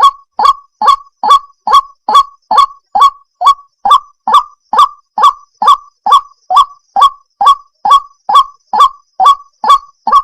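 White-breasted waterhen (ruak-ruak) calling: a steady run of short, loud notes, each sweeping up sharply, about two a second.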